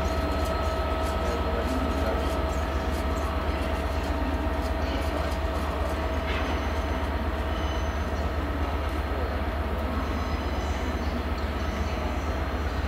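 A Hitachi Class 800-family intercity train running slowly across pointwork, with a steady rumble and whine and light clicking of its wheels over the rail joints and crossings.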